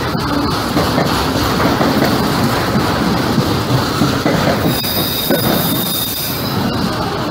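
Freight train of autorack cars rolling past close by: a steady rumble and rattle of steel wheels on rail, with clicks of wheels over the rail joints. About five seconds in, a high-pitched wheel squeal sounds for under two seconds.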